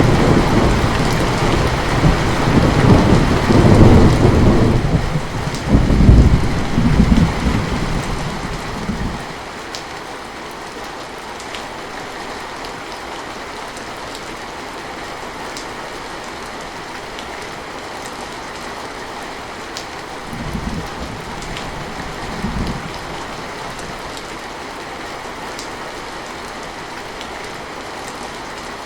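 Steady heavy rain with thunder rumbling loudly through the first nine seconds or so. Two brief, quieter rumbles follow about 20 and 22 seconds in.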